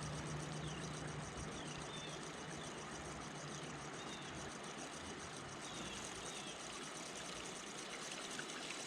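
Creek water running steadily, with a faint high pulsing trill and a few short high chirps over it.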